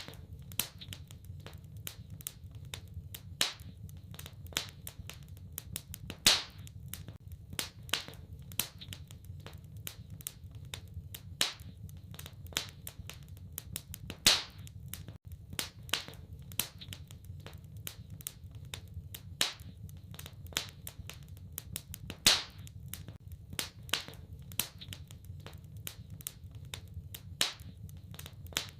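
Wood fire crackling in a fireplace: many irregular sharp snaps and pops, a few much louder than the rest, over a steady low background.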